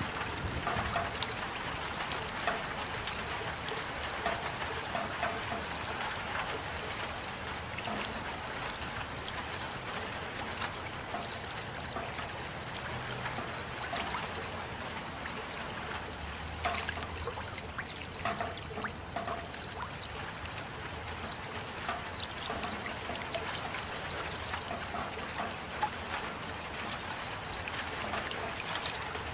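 Steady rain with water trickling, and many separate drops ticking and plinking throughout.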